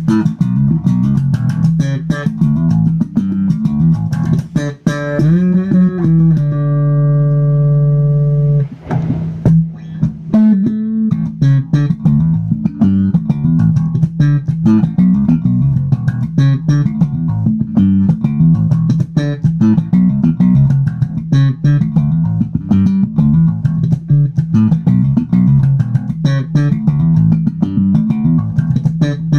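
Electric bass guitar played through a Hikari compressor, a busy plucked line at an even loudness. About seven seconds in there is one long held note, ended by a brief noisy scrape.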